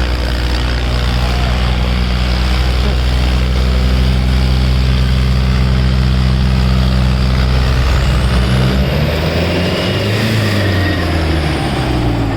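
Tractor diesel engine running loud and steady; from about nine seconds in, its note wavers up and down.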